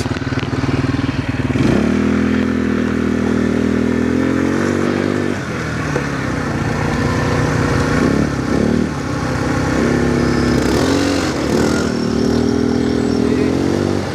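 Quad bike (ATV) engine running under throttle. It revs up about two seconds in, eases off around five seconds, then speeds up and slows again several times.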